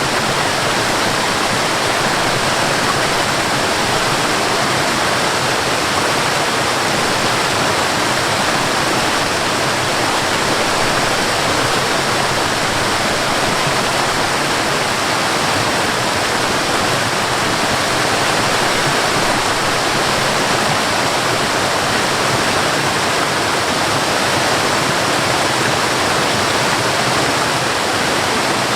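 Waterfall: water falling and splashing onto rocks in a steady, unbroken rush.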